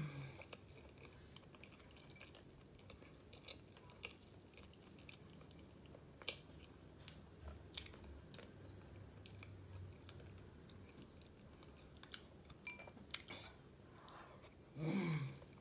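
Faint close-up chewing and wet mouth sounds of a person eating snow crab, with scattered small clicks and smacks. There is a short hum near the end.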